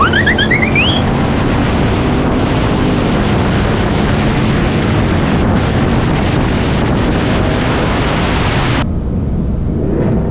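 Pickup truck engine running hard at speed, with heavy wind noise on the microphone. Rising whistles about the start fade within the first second.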